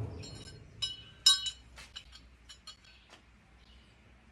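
Welded rebar shelf brackets clinking and ringing, a few sharp metallic clinks in the first second and a half, then lighter ticks as they settle. They have been dropped to test the welds, which hold.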